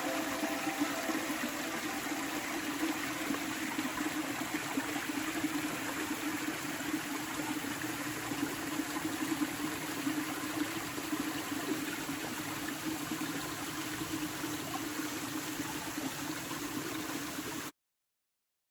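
Small mountain waterfall, not yet fully frozen, its water running steadily. The sound cuts off abruptly about a second before the end.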